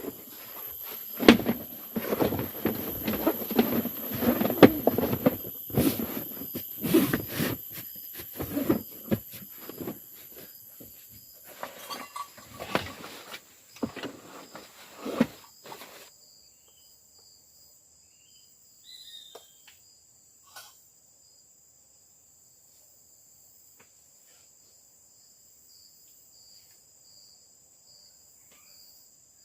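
Forest insects such as crickets chirring steadily. Over them, a dense run of close knocks and rustling handling noise fills the first half and stops about halfway through.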